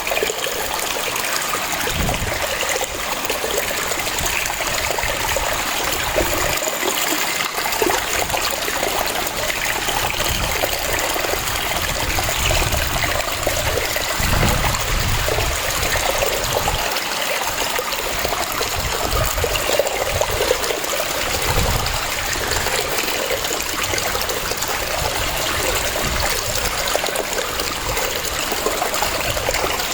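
Waterfall: water cascading and splashing in a steady, continuous rush, with an uneven low churning underneath.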